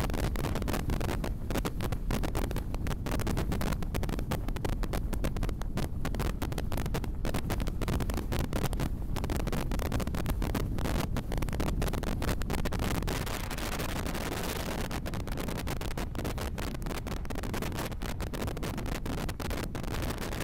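Passenger train running at speed, heard from an open coach door: a steady rumble of the coaches on the track with wind buffeting the microphone, a little quieter after about thirteen seconds.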